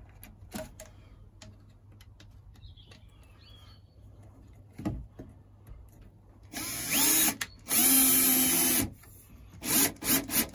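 A power drill runs for about two seconds, starting about six and a half seconds in. Near the end it gives several short bursts on the trigger. Before that there are only light handling clicks.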